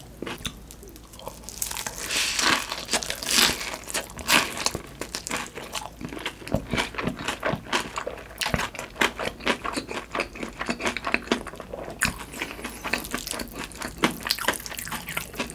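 Close-miked eating sounds: wet, sticky chewing with crunchy bites and crackles, densest about two to four seconds in.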